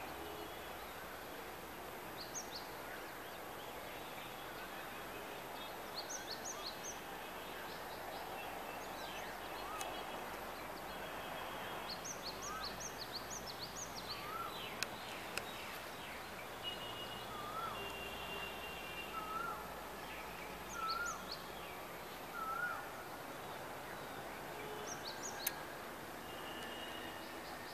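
Birds chirping and calling over a steady outdoor background hiss. From about halfway, a short rising-and-falling whistle repeats every second or two.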